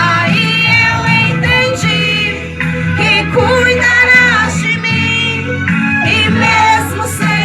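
A woman singing a Portuguese gospel worship song over instrumental backing, her voice gliding between held notes.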